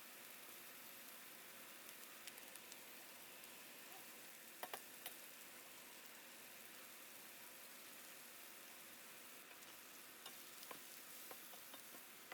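Faint, steady sizzling of food frying, with a few small pops or clicks about a third of the way in and again near the end.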